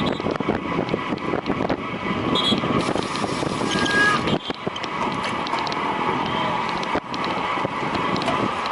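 Steady wind rushing over the microphone of a bicycle racer's camera while riding at speed.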